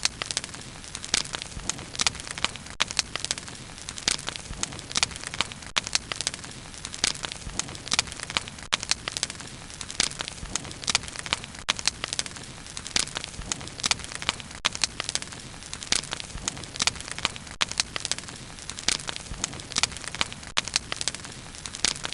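Bonfire burning, crackling with frequent sharp pops and snaps over a steady low hiss.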